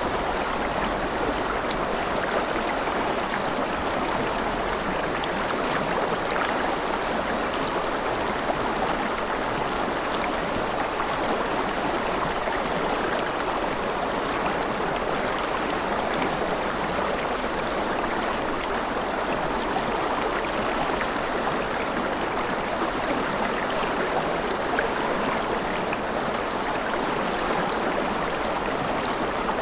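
River water running and splashing in a steady, even rush, with no separate events.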